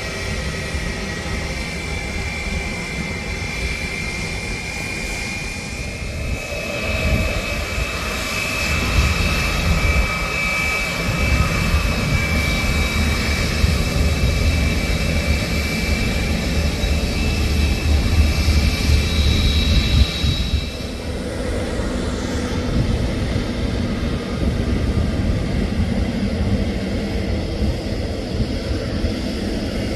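Jet airliner passing low overhead on landing approach: a high engine whine over a deep rumble that builds to its loudest about two-thirds of the way through, then drops off suddenly.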